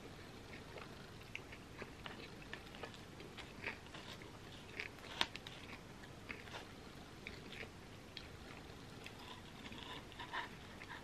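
A person chewing a mouthful of gooey chocolate cookie pizza, with many soft wet mouth clicks and smacks. Near the end a spoon digs into the pan for another scoop.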